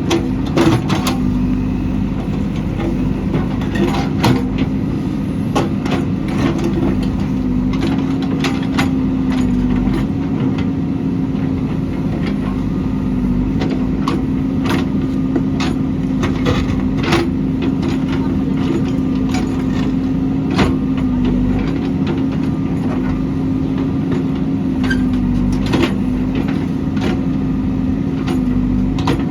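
JCB backhoe loader's diesel engine running steadily, with frequent sharp knocks and clanks over it.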